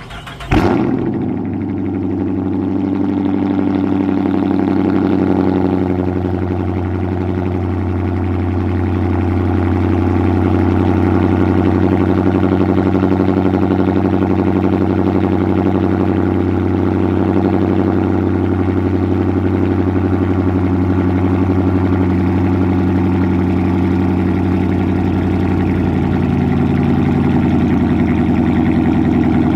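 Dodge Charger engine cold-starting: it catches about half a second in with a sudden loud flare, then settles into a steady cold-start idle on its stock exhaust.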